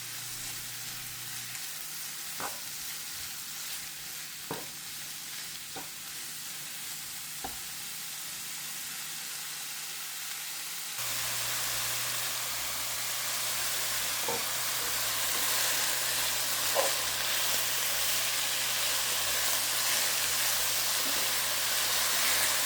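Oyster mushrooms frying in oil in a pan, a steady sizzle as the water they release cooks off. A few light knocks come through, and the sizzle gets louder abruptly about halfway through.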